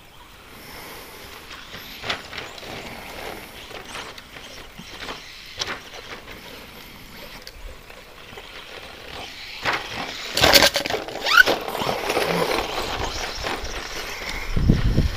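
ECX Circuit 1/10 2WD electric stadium truck running on a rough dirt track: its brushed motor and tyres on dirt, with sharp knocks from the chassis hitting bumps. It gets louder and busier about ten seconds in, with several hard hits and a brief rising squeal.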